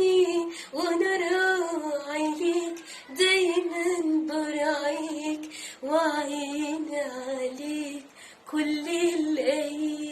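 A woman singing an Arabic Christian hymn, in four phrases of a few seconds each with short breaks between them.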